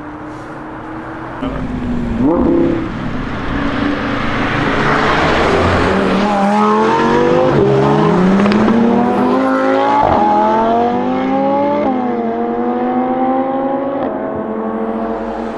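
Lamborghini Huracán STO's 5.2-litre V10 accelerating hard, its note climbing and dropping back with each of several quick upshifts, loudest in the middle as the car passes.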